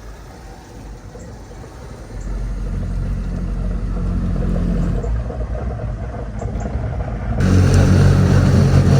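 A motor vehicle engine rumbling. It grows louder about two seconds in, and near the end a much louder rush of noise sets in suddenly.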